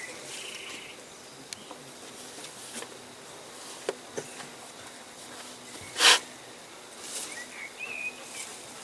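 An insect buzzing, with scattered faint clicks, a few short chirps near the end, and one short loud noise about six seconds in.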